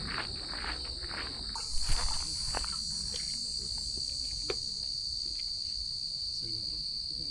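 Steady high-pitched chorus of crickets in late-summer vegetation. Walking footsteps on the trail are heard during the first second and a half, with a few scattered clicks after that.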